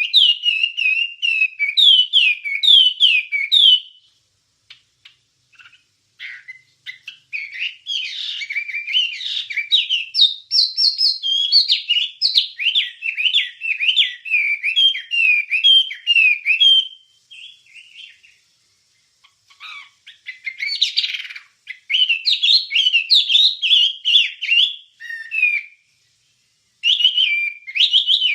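A wambie songbird singing a fast, varied warble of chirps and whistled notes, in long phrases with a few short pauses.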